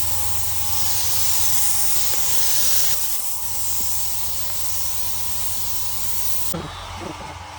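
Compressed-air paint spray gun hissing steadily as it sprays the panel, then shutting off suddenly near the end.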